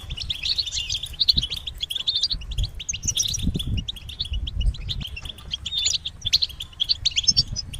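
Several European goldfinches twittering in rapid, overlapping chirps, the excited contact and mating calls used to stir a male goldfinch into song. A low rumble runs underneath.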